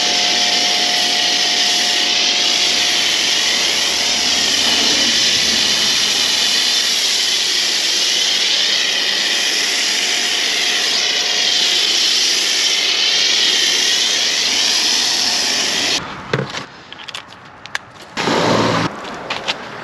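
A car-detailing machine runs steadily with a loud hiss over a motor hum, then stops suddenly about sixteen seconds in. A few knocks and a short loud noise follow near the end.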